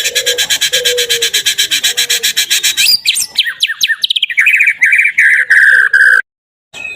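White-rumped shama (murai batu) singing. It opens with a rapid rasping chatter of about ten strokes a second, runs into quick falling whistled notes, then a fast high trill that cuts off abruptly near the end.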